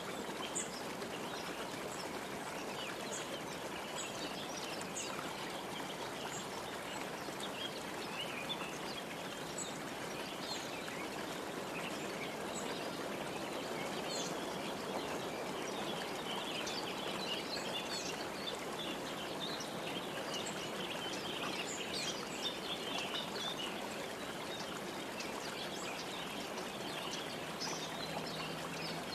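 Birds chirping and calling in many short, high notes throughout, busiest in the middle stretch, over a steady rushing hiss.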